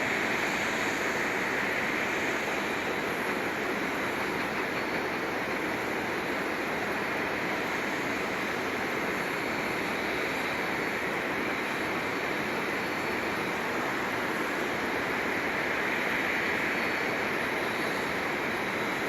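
Steady, even roar of jet aircraft noise across the airfield, with no distinct events.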